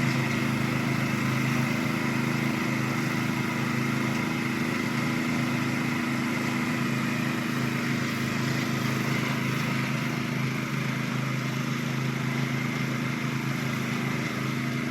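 Homemade zero-turn ride-on lawn mower's engine running at a steady speed, with an even hum and no change in pitch.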